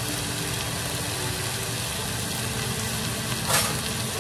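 Chicken thighs and sliced onions frying in a nonstick pan, a steady sizzle with a low hum underneath and one short, louder hiss near the end.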